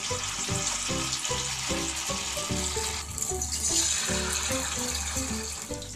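Batter-coated paneer pieces sizzling in hot oil in a frying pan, an even frying hiss with background music playing over it.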